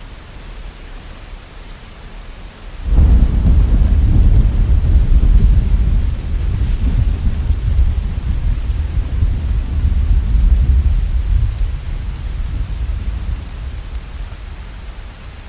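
Steady heavy rain, with a deep roll of thunder breaking in suddenly about three seconds in, rumbling for several seconds and slowly dying away near the end.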